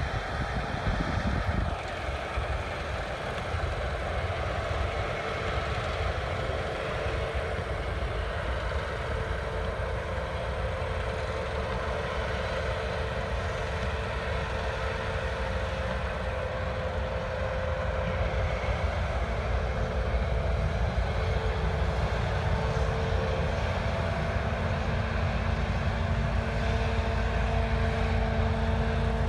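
Heavy diesel harvest machinery running steadily: a continuous low engine drone, heavier in the first couple of seconds, with a steady tone joining about five seconds in.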